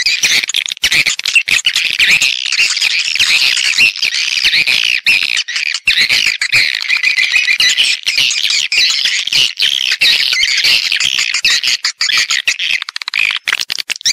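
Swiftlet calls: a dense, continuous twittering of many rapid overlapping chirps. This is a lure recording of the kind played to draw edible-nest swiftlets into a nesting house.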